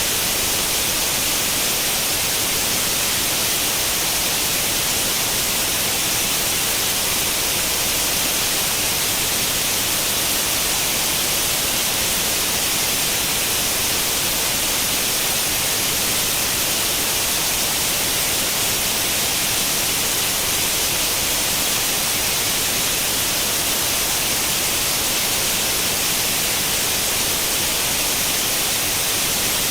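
Steady white noise like the static hiss of an old tube television tuned to no channel, even and unchanging, with most of its strength in the upper range.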